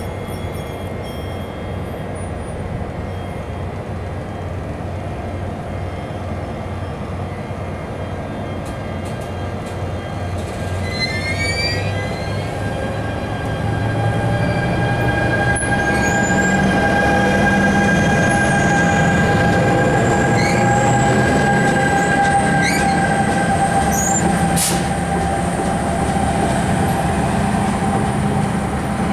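Passenger train of silver coaches moving slowly past at close range, its wheels and running gear rumbling steadily. About halfway through the locomotive's engine note comes up and the sound grows louder, with a high whine that slowly rises in pitch. There are a few short squeals just before.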